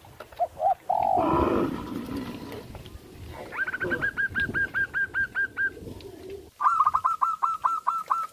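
Birds calling: a few short notes, then a louder falling call about a second in, followed by two long runs of quick repeated notes, about five a second, from around three and a half seconds and again from six and a half seconds.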